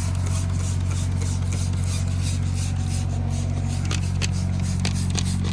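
Repeated scrubbing strokes scraping hardened crud off a truck's steel fuel tank, a few strokes a second, over a steady low hum.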